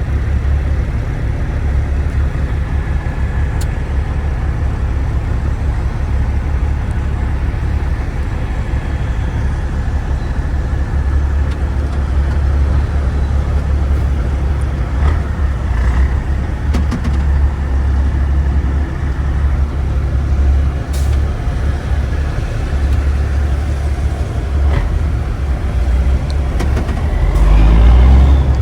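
Big rig truck on the move: a steady, deep engine and road rumble that swells louder near the end.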